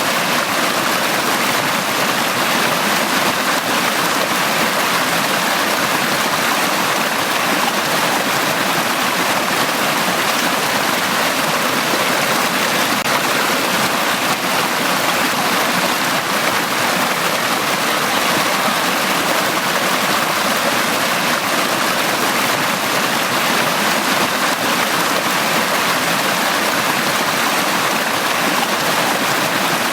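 A valley stream flowing in a steady, even rush of water that does not change.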